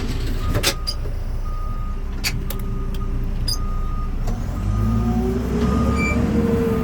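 Reversing alarm beeping about once a second over a running diesel engine, with a few sharp clanks early on; about five seconds in the engine revs up and grows louder.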